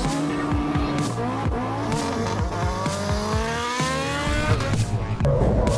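Honda Civic race car's engine revving hard, its pitch climbing steeply about halfway through, with tyres squealing in a burnout. Music plays underneath.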